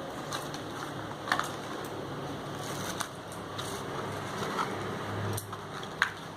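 Light clicks and taps, about five of them, the sharpest a little after the first second and near the end, over a steady background hiss.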